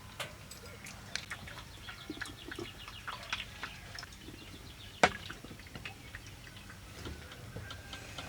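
Scattered light clicks and small knocks, with one sharper knock about five seconds in.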